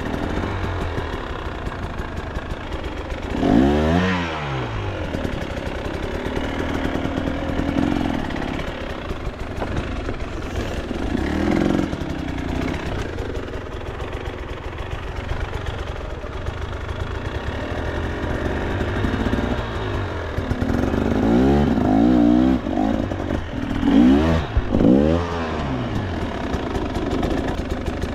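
KTM two-stroke enduro dirt bike engine running under load with repeated sharp revving bursts, the biggest about four seconds in and a cluster of them near the end, over a background of clatter.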